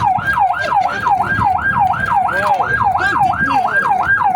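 Emergency vehicle siren in a rapid yelp, its pitch sweeping up and down about four times a second, over a low rumbling noise.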